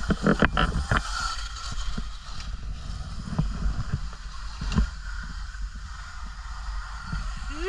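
Wind buffeting the microphone on a moving off-road bike, with knocks and clatter from the bike rolling over rough, muddy ground. A short rising pitched sound comes right at the end.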